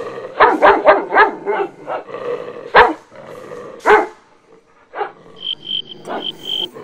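A dog barking: a rapid run of barks, then two more single barks about a second apart.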